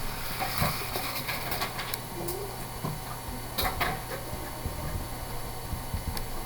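Quiet classroom: a steady low hum with scattered light scrapes and taps. The loudest are two quick scrapes about three and a half seconds in.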